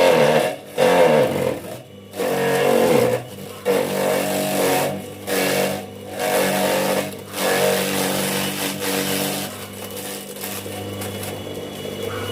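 Homemade grass chopper driven by an electric water-pump motor, running with a steady hum while forage is fed in: a series of louder chopping bursts comes about once a second, the motor's pitch sagging under some of them, and it settles back to a plain steady hum near the end.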